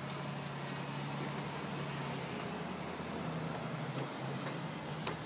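A car engine running steadily with a low hum and a few faint clicks.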